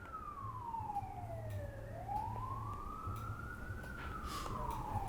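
Faint emergency-vehicle siren wailing: one tone sliding slowly down, then up, then down again, each sweep taking about two seconds.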